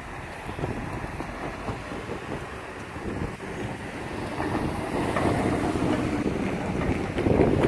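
Freight train rolling past, a steady rumble that grows louder in the second half, with wind buffeting the microphone.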